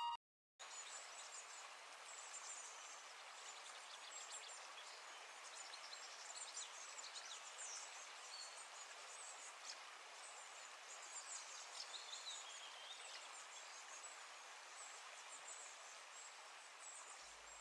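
Faint outdoor ambience: a steady hiss with many small, high bird chirps and twitters scattered through it.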